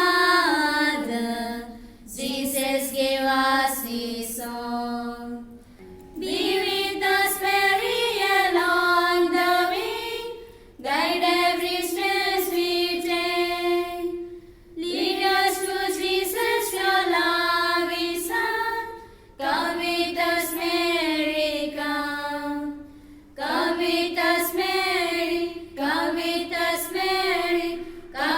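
Female voice singing a Marian hymn unaccompanied, in sung phrases of a few seconds each with short breaths between them.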